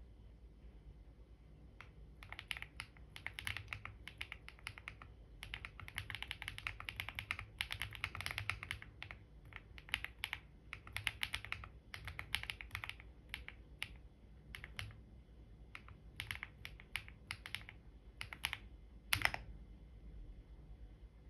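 Computer keyboard typing in quick runs of keystrokes broken by short pauses, starting about two seconds in, with one louder keystroke near the end.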